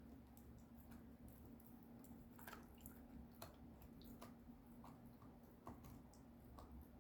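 A puppy chewing and gnawing on a dog chew: faint, irregular wet clicks and squelches, over a steady low hum.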